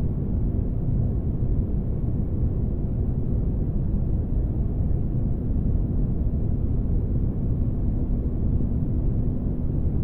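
Spaceship ambience: a steady, deep rumbling noise, heaviest in the bass, with a faint constant hum running through it.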